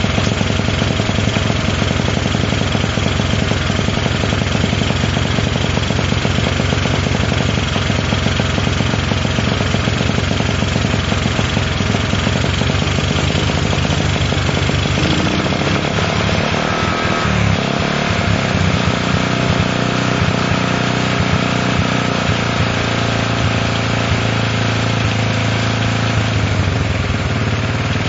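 Honda CL70's small single-cylinder four-stroke engine running. About halfway through its speed wavers and climbs, holds higher for several seconds, then drops near the end, as the throttle is worked to keep it going. It will not hold a steady idle, and its carburettor is overflowing.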